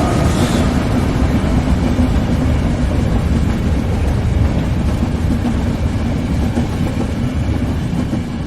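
Train running on the rails: a loud, steady rumble of wheels on track.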